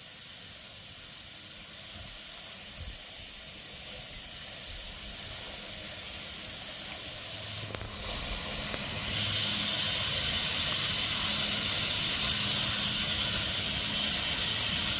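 Water spraying hard from a garden hose with a steady hiss. The spray grows slowly louder, breaks off for a moment about halfway, then comes back stronger and louder, as if the flow were turned up.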